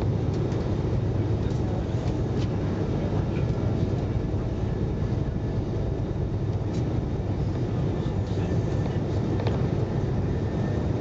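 Steady low rumble of a train running at speed, heard from inside the passenger carriage, with a few faint clicks.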